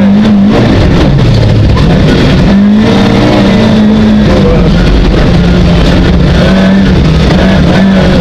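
Rally car's engine heard from inside the cabin, running hard and loud at high revs, its note holding fairly steady with small shifts in pitch.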